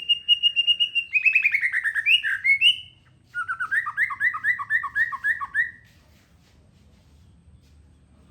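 A songbird singing. It gives a rapid string of high notes, then a falling trill, and after a short pause a phrase of about ten quick repeated two-part notes. It stops about six seconds in.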